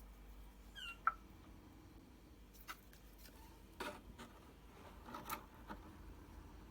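Quiet handling of a Tassimo pod coffee machine while its pod is swapped: a few scattered clicks and knocks, with a brief squeak about a second in.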